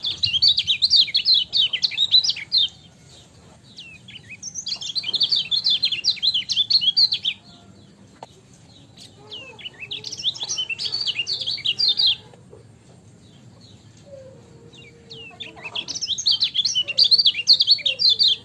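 Kecial kuning white-eye singing in four bouts of rapid, high twittering, each lasting a few seconds, with pauses between.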